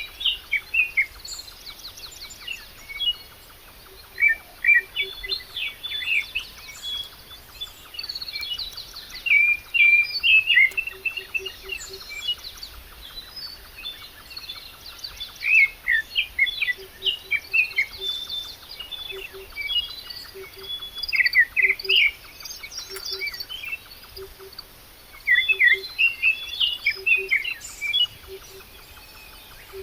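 Songbirds chirping and singing, with many short overlapping calls and trills. In the second half a soft, low call repeats about once a second beneath them.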